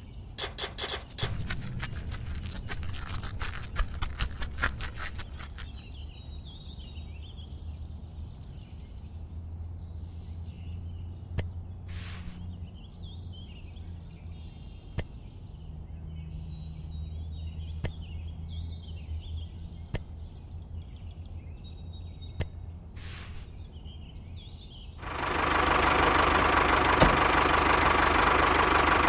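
Miniature model tractor's engine running with a loud, steady noise that starts suddenly about 25 seconds in. Before it come rapid ticking for the first few seconds, then faint bird chirps over a low hum.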